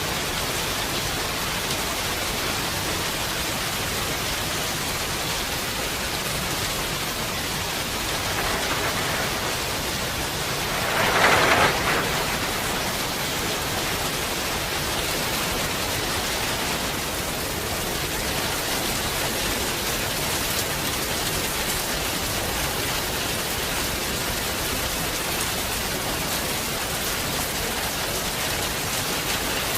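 Steady heavy rain falling, a dense even hiss. About a third of the way in, a short louder swell of about a second rises above it.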